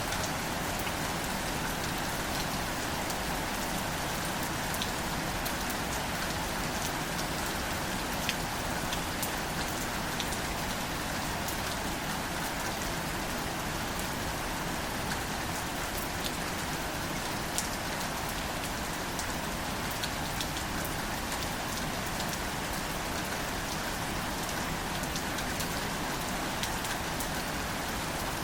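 Steady rain falling on greater celandine wildflowers, with scattered sharp ticks of single drops.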